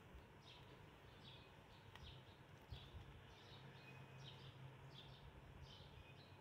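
Near silence: faint background with short bird chirps repeating throughout, and a faint low hum for a couple of seconds in the middle.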